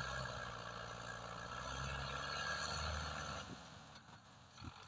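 Diesel engine of a Belarus 510 tractor running steadily, then dropping away about three and a half seconds in.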